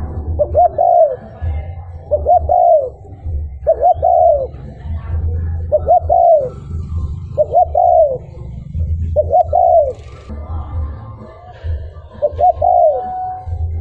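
Male spotted dove cooing its short repeated song, one phrase about every second and a half, about eight times, over a low rumble.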